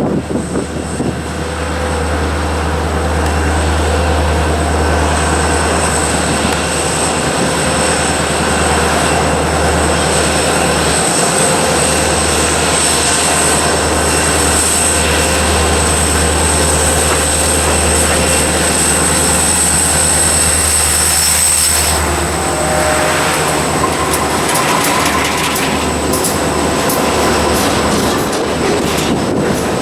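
Freight cars of a long mixed freight train rolling past, with a steady high-pitched wheel squeal over the rumble of the wheels. The sound shifts abruptly about two-thirds of the way through, and a run of sharp clicks from wheels crossing rail joints follows near the end.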